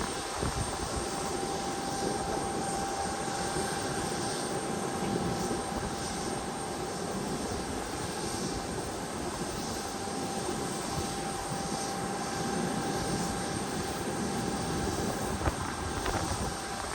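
A fixed-wing airliner's engines running steadily, a continuous rushing noise with a steady whine, with no marked rise or fall.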